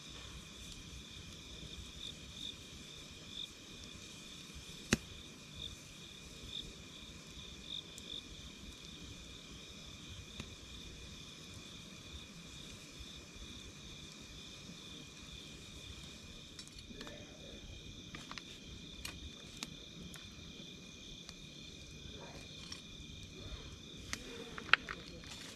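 Night insects trilling steadily in a continuous high, pulsing chorus, over a wood campfire crackling with occasional sharp pops. The pops come more often in the second half, and the loudest comes near the end.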